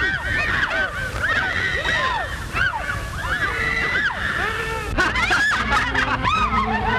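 Many overlapping voices crying out at once in short rising-and-falling yelps and exclamations, a commotion that thickens near the end.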